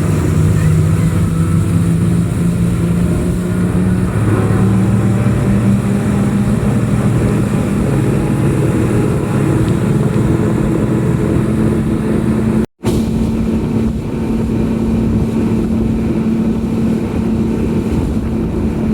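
Yamaha 250 four-stroke outboard motors of a passenger ferry running under way, a loud steady drone whose pitch shifts a few times. It breaks off for an instant about two-thirds of the way through.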